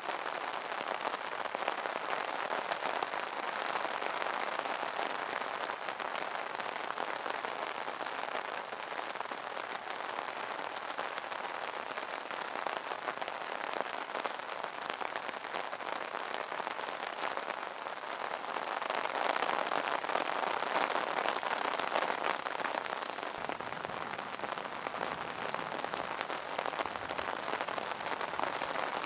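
Steady rain pattering on an umbrella canopy, a dense hiss of many small drop taps, swelling a little louder partway through.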